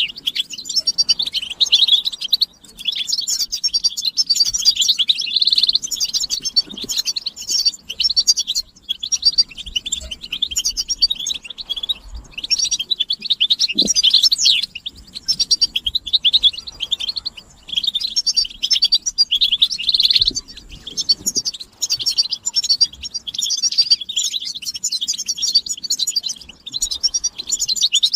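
European goldfinches twittering together: rapid, high, tinkling chirps and calls in unbroken phrases with only brief pauses. This is the group chatter that goldfinch keepers play to stir silent males into song.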